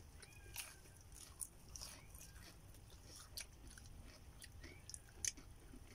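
Faint eating sounds of a person chewing and biting fried chicken, with scattered small clicks and smacks.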